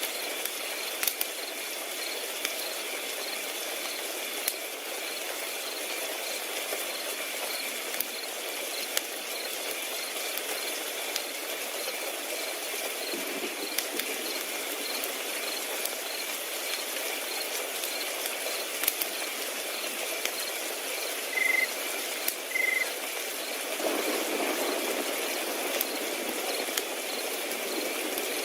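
Crickets trilling in a steady, evenly pulsed chorus, with scattered sharp crackles and pops from a burning wood fire. Two louder short chirps come about three quarters of the way through.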